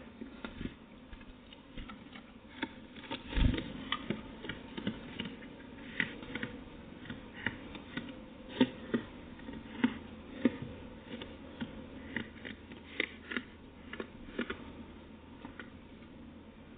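Light, irregular tapping and clicking at a bird feeder, roughly one or two taps a second, with one heavier thump about three and a half seconds in.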